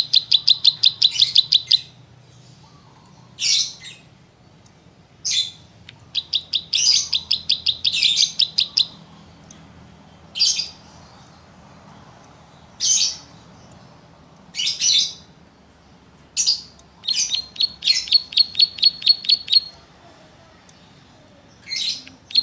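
A songbird calling: runs of evenly repeated high notes lasting two to three seconds, with single short chirps every couple of seconds between them.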